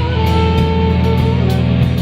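Live rock band playing an instrumental break, a guitar holding long lead notes over a full band.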